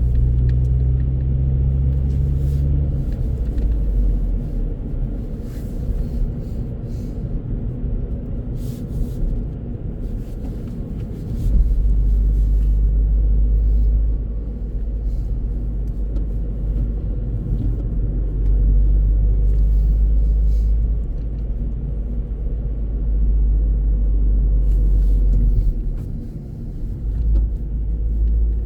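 A car driving along a road: steady low road and engine rumble, with the deep rumble growing heavier and easing off in stretches.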